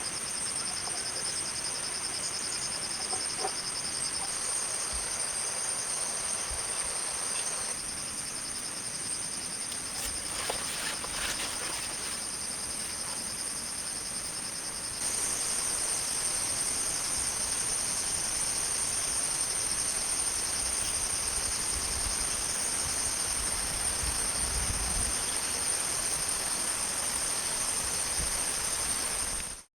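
Chorus of crickets and other insects: a steady high-pitched trill with a faster pulsing layer beneath it. It gets abruptly louder about halfway through and cuts off sharply at the very end.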